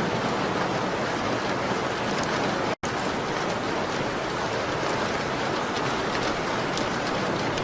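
Steady, dense rain ambience, with faint scattered ticks of drops or crackles over the hiss. The sound cuts out completely for a split second about three seconds in, then resumes.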